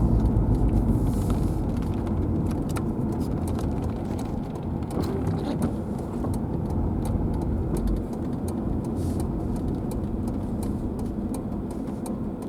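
Strong wind gusts buffeting the car and the microphone during a severe thunderstorm. A heavy rumble eases after the first couple of seconds, with scattered light ticks throughout.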